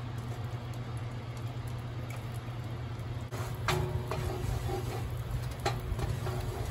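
Chopped green chillies sizzling gently in melted butter and oil in a cast-iron skillet. From about three seconds in, a wooden spoon stirs them, with a couple of sharp knocks against the pan.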